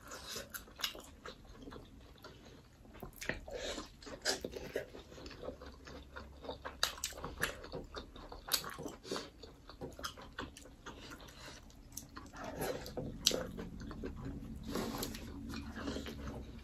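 Two people chewing and biting into mutton momos, with irregular wet mouth smacks and clicks.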